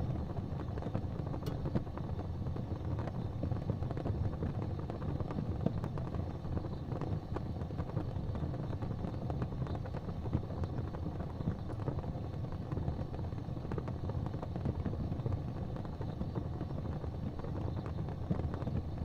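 Wood fire crackling in a fireplace, with small pops scattered over a steady low rumble.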